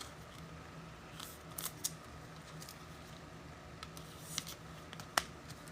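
Trading cards and packaging being handled at a table: a few faint, scattered clicks and crinkles over a low steady hum.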